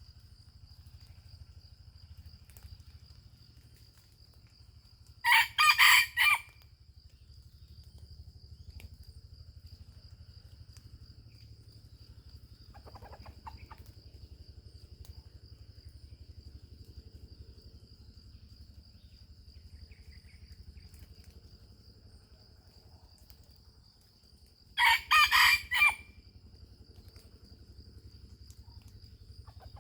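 A rooster crows twice, about twenty seconds apart, each crow loud, short and broken into a few notes; a fainter, more distant crow comes in between. A steady high insect drone and a low rumble run underneath.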